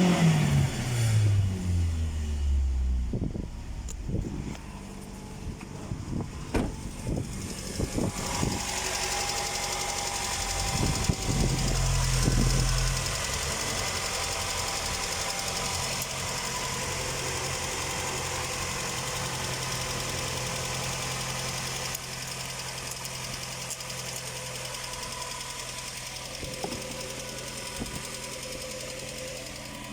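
Suzuki Grand Vitara's 2.0-litre J20A four-cylinder petrol engine on test: the revs fall away after a blip, a few sharp knocks sound in between, there is a short louder spell near the middle, and then the engine idles steadily.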